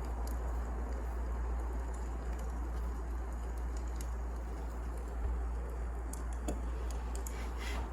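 Wood fire burning: a steady low rush with scattered small crackles and pops.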